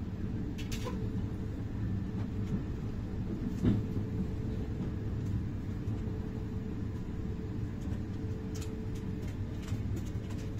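Passenger train running, heard from inside the carriage: a steady low rumble with a faint steady hum, and a few short knocks, the loudest about four seconds in.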